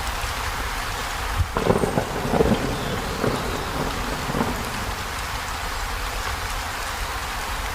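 Heavy rain falling steadily on a corrugated zinc roof. About a second and a half in there is a louder, crackling, rumbling patch lasting about a second, with smaller flare-ups after it.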